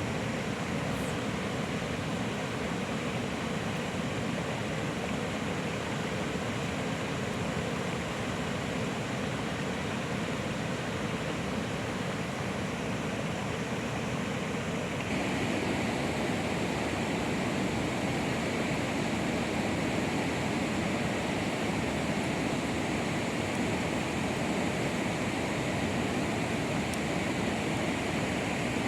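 Steady rain falling, an even hiss without distinct drops. About halfway through it changes abruptly to a slightly louder, brighter hiss.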